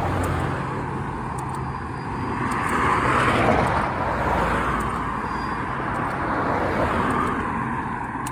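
Road traffic passing: one car goes by close about three seconds in, and another passes more faintly around seven seconds.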